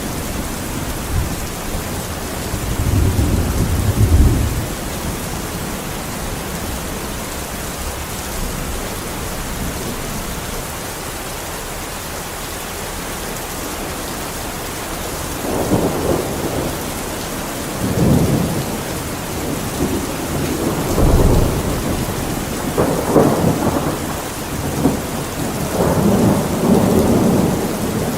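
Steady heavy rain with rumbling thunder: one roll a few seconds in, then a longer run of rolling rumbles through the second half.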